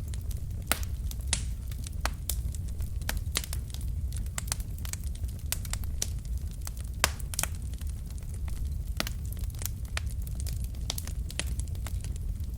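Wood fire in a fireplace crackling: irregular sharp pops and snaps from the burning logs over a steady low rumble of the flames, with one louder pop about seven seconds in.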